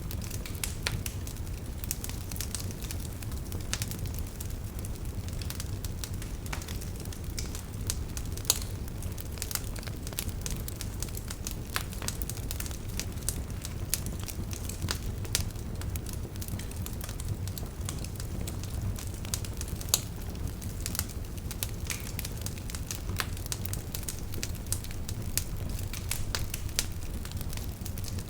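Wood campfire burning, with a steady low rumble of flame and frequent irregular crackles and pops, two of them sharper than the rest.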